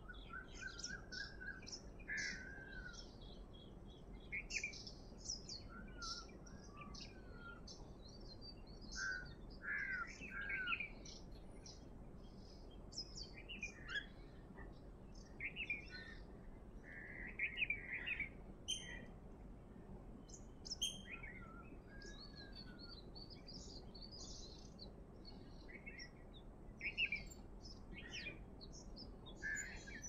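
Many birds chirping and whistling at once in short, overlapping calls: a dawn chorus, over a faint steady background hiss.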